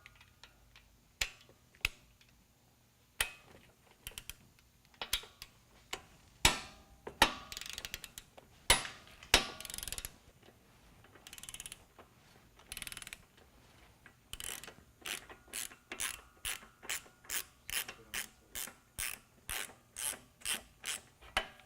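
Ratcheting torque wrench backing off a motorcycle axle nut: scattered clicks and short rattles at first, then a steady run of pawl clicks, about two to three a second, from about two-thirds of the way through as the nut is worked loose with quick strokes.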